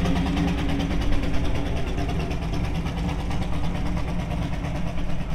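A car engine idling steadily, without revving.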